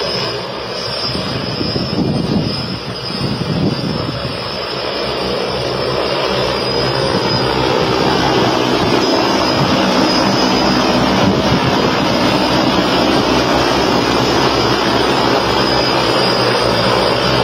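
Propellers and electric motors of a homebuilt electric manned eVTOL aircraft in flight, making a loud, steady whirring drone. The sound wavers for the first few seconds, then grows louder and holds steady.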